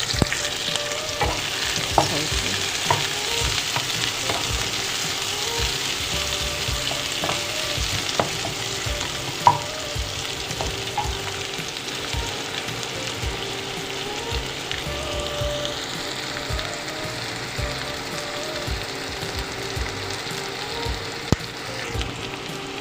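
Chopped onion sizzling in hot oil in a pan, stirred with a utensil that now and then clicks and scrapes against the pan. The sizzle eases off somewhat over the second half.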